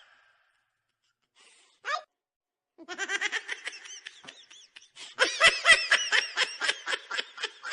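A person laughing in quick repeated pulses, starting about three seconds in and getting louder a couple of seconds later.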